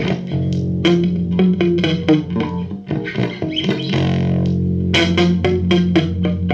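Instrumental music of plucked guitar and bass guitar: quick picked notes over sustained bass notes.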